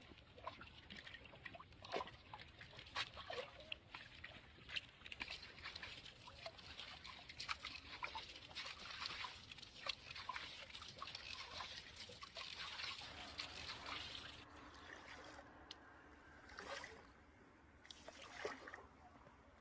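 Faint water sloshing and trickling, with many small splashes that thin out about three-quarters of the way through.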